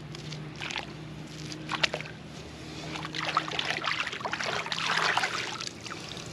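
Water splashing and sloshing as a mud crab is swished through creek water to rinse the mud off, loudest from about three to five and a half seconds in, with a sharp knock just under two seconds in.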